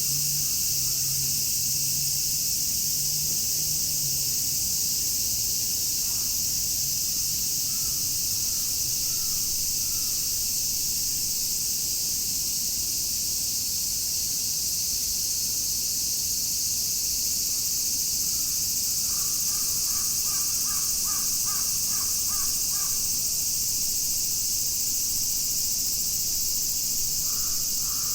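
A dense, steady chorus of cicadas, a wall of high shrill buzzing. A bird calls over it in short runs of quick repeated notes: once near the start, a few times in the first third, a longer run about two-thirds in, and again at the end.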